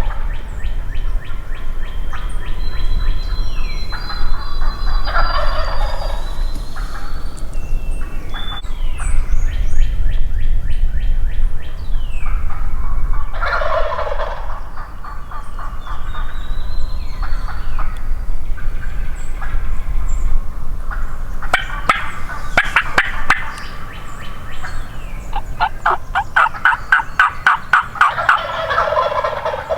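Wild turkey gobblers (longbeards) gobbling repeatedly from the roost, with several birds calling in turn and a fast run of calls near the end. Small songbirds chirp between the gobbles.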